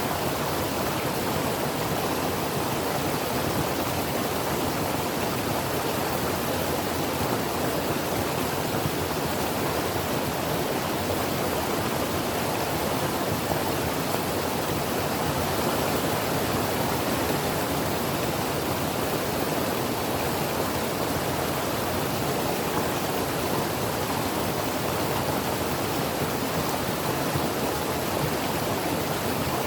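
Creek water flowing and rushing over rocks, a steady, even hiss without change.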